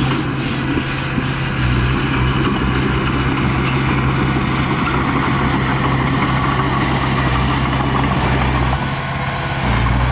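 Heavy diesel engine running steadily at a low, even pitch. It dips briefly about nine seconds in, then comes back louder.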